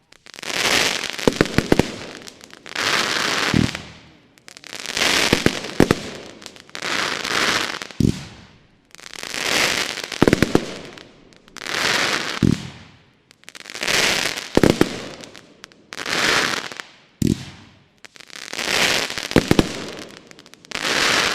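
Pyrocentury Mad Dog 30 mm firework battery firing shot after shot, about one every two seconds. Each launch thump is followed by a long burst full of sharp cracks.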